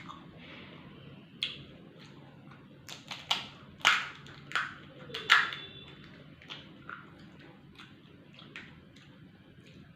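Close-miked eating: a person biting and chewing crunchy fried snack food, with a run of loud crackly crunches about three to five seconds in and softer chewing clicks after.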